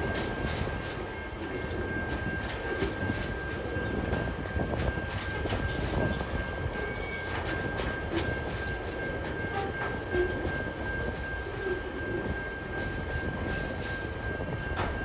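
TasRail freight train rolling slowly past, its wagons' wheels clicking irregularly over the rail joints under a steady rumble, with a steady high-pitched tone over it.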